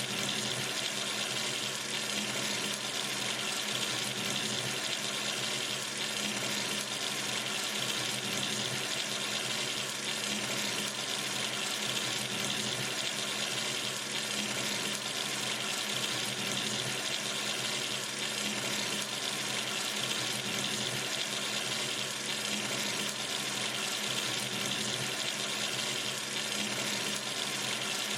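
Water running steadily from a sink tap, a constant even splashing hiss with no change.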